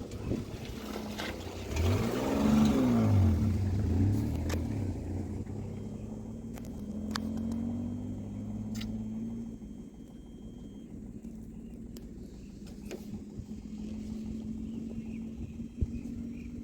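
A motor vehicle's engine passes by, its pitch rising and then falling about two to four seconds in. After that, engine running sounds come and go more steadily, with a few sharp clicks.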